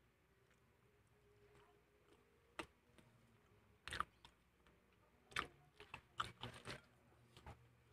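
Faint, close-miked chewing of fried chicken and rice: scattered wet mouth clicks and smacks, coming more often in the second half.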